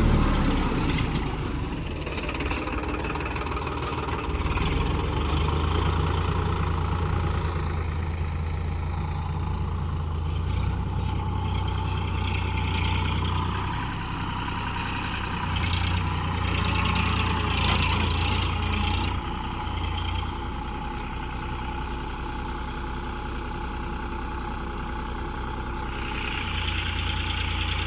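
Sonalika DI 734 tractor's diesel engine running, its level rising and easing several times as it is worked, with the tractor stuck and not yet freed.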